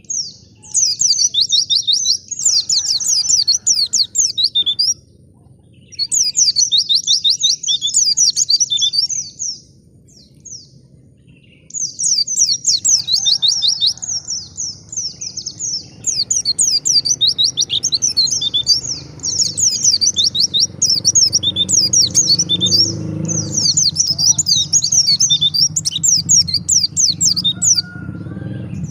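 White-eye (pleci) singing a fast, chattering twitter of rapid high notes, in phrases of a few seconds separated by short pauses.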